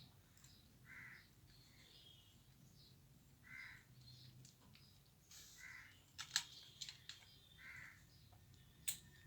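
A crow cawing repeatedly, short single caws about every two seconds, faint. A few sharp clicks come near the middle and again near the end.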